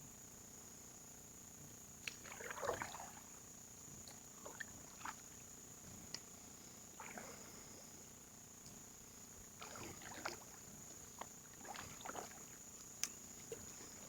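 Faint canoe paddling: irregular swishes and splashes of the paddle in the water every few seconds, with a couple of sharp clicks, over a steady high-pitched tone.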